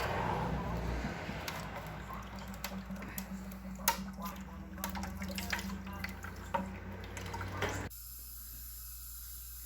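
Oil being drained from a submersible motor's body, pouring and splashing with scattered drips. It stops abruptly near the end, leaving a low hum.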